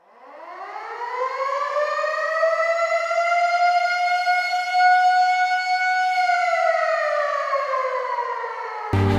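Air-raid siren winding up over about three seconds to a steady wail, holding it, then slowly winding down in pitch. Music cuts in suddenly just before the end.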